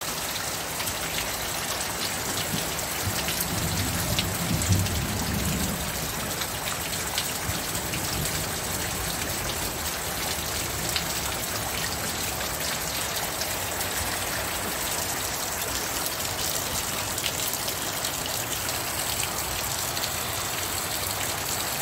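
Torrential rain pelting down on brick paving and a flooded concrete path, a steady dense hiss with water splashing where the runoff lands. About four seconds in there is a brief low rumble.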